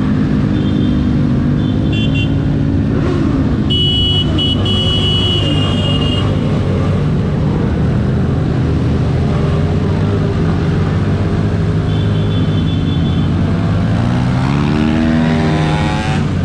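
Several motorcycle engines running together in a rally procession, with short high-pitched horn toots a few times and an engine revving up near the end.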